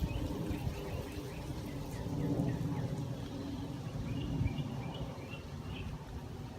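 Small birds chirping in short high notes, with a quick run of chirps about four to six seconds in, over a steady low background rumble.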